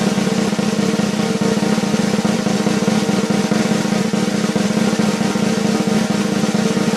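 A drum roll on a snare drum: very rapid, even strokes held at a steady level.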